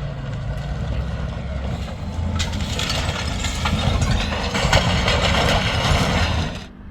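A motor vehicle's engine running, getting louder about two and a half seconds in, then cutting off suddenly near the end.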